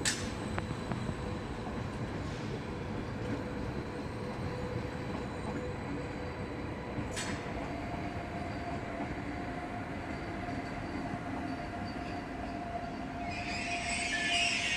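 Passenger train of orange NSB coaches and an El 18 electric locomotive rolling slowly past the platform: a steady rumble of wheels on rail, a thin wheel squeal that sets in about halfway and holds, and a loud hiss near the end as the locomotive draws level.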